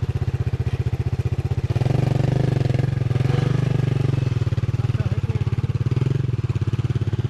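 Motorcycle engine running under way, a steady rapid throb that gets louder about two seconds in.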